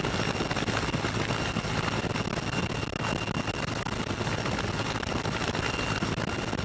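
Military helicopter running steadily in flight: dense rotor and engine noise with a low hum and a thin, steady high turbine whine.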